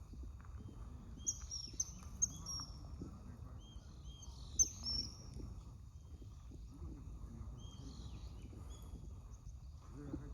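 Birds chirping in short high notes, in bursts during the first half and more faintly later, over a low steady outdoor rumble.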